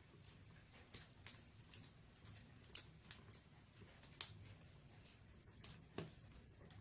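Firewood burning in a fireplace: faint, irregular crackling with about four sharper pops spread through, over a low steady rumble.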